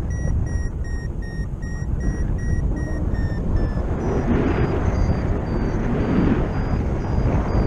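A paragliding variometer beeps its climb tone, short beeps about three a second, slowly falling in pitch. This signals the glider is rising in a weak thermal. Wind rushes across the microphone underneath, growing louder about halfway through as the beeps fade.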